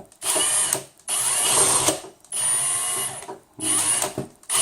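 Power drill boring a hole in a frame panel, run in four short bursts of under a second each with brief pauses between them, then started again at the end.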